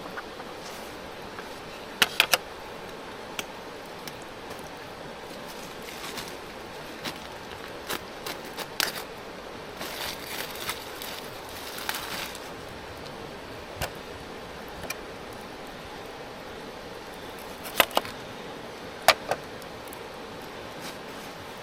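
Metal camp cooking gear clinking: sharp ringing clinks, in a pair about two seconds in and again in a few strikes near the end, with lighter knocks and handling sounds in between over a steady low hiss.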